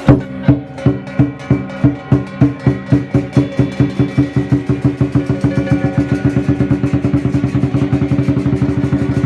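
Lion dance percussion: a large drum beaten with ringing cymbals, the strokes speeding up from about two a second into a fast, steady roll.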